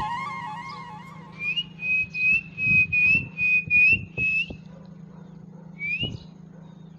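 A bird whistling a quick run of about eight short, clear notes on one pitch, each with a slight upward slide, then a single rising note a little later.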